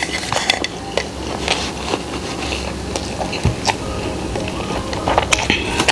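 Close-miked chewing of crispy fried chicken with its crunchy fried-crumb coating: scattered crunches and wet mouth clicks, with no steady rhythm.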